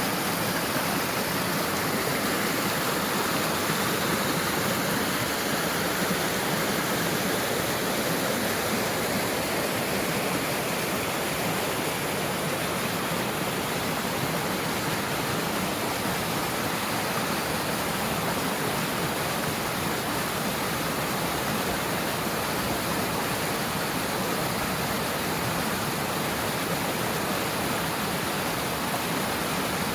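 Mountain stream rushing over rocks, a steady, even water noise.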